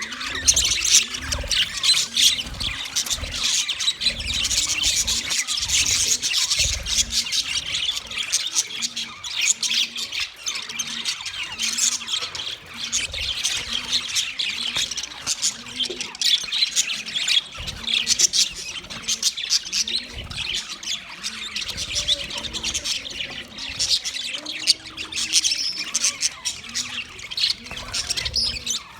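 Several male budgerigars chattering and chirping continuously, a dense run of rapid squawks and tweets with no pause.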